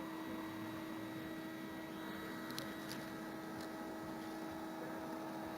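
Steady, even hum of a large honeybee swarm clustered on a fence, with a few faint ticks a little after halfway.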